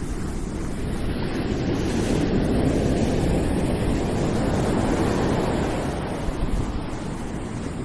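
Ocean surf washing in, with wind buffeting the microphone; the rush swells through the middle and eases toward the end.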